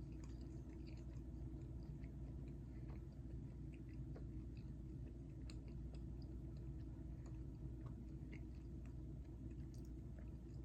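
A person chewing a chocolate-filled snack, faint small mouth clicks over a steady low hum.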